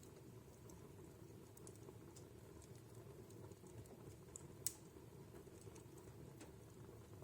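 Wood fire crackling in a home fireplace: faint scattered snaps and pops over a low steady rumble of flames, with one sharper, louder pop a little over halfway through.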